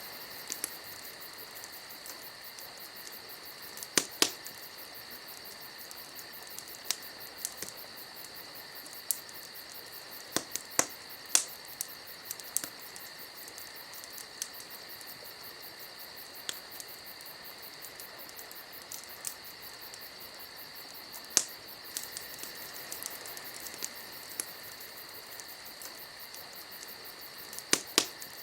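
Wood fire crackling, with scattered sharp pops at irregular intervals, over a steady high-pitched drone.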